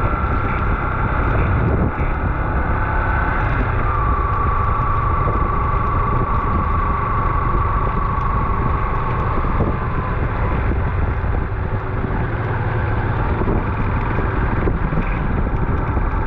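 Wind buffeting an action camera's microphone during a bike ride, over steady road and vehicle noise. A steady high whine runs through the first ten seconds, stepping slightly lower about four seconds in.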